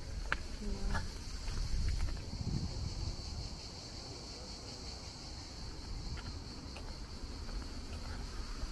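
Insects chirring in a steady, high-pitched drone, over a low rumble.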